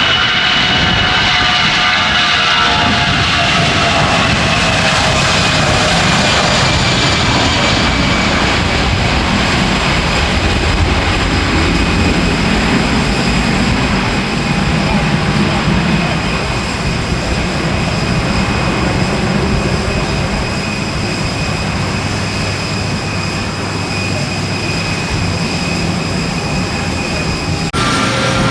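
Jet airliner's engines running loud as it passes close by, the turbine whine falling in pitch over the first several seconds, then steady engine noise. The sound shifts abruptly about a second before the end.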